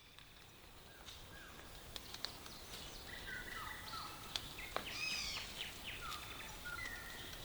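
Wild birds calling: repeated short falling whistles and higher arched chirps from more than one bird, over a faint outdoor hiss, with a few sharp ticks. It fades in from silence over the first second.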